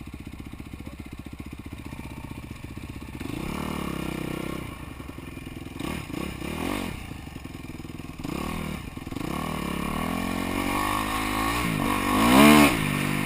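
Motocross bike engine idling with a fast, even beat, then revved in several rising-and-falling blips, the biggest near the end.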